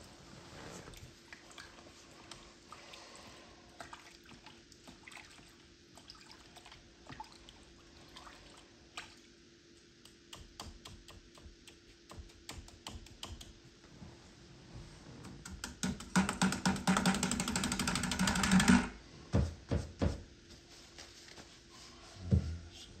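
Faint, scratchy painting sounds with small clicks for most of the stretch. About sixteen seconds in comes a loud, rapid rattling lasting about three seconds, then a few separate knocks.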